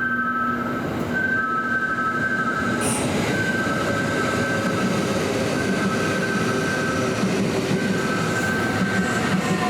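Kintetsu electric commuter train running into the platform, with wheel and rail noise and a motor whine that falls slowly in pitch as it slows. A short hiss comes about three seconds in. A two-tone electronic signal alternates steadily behind it.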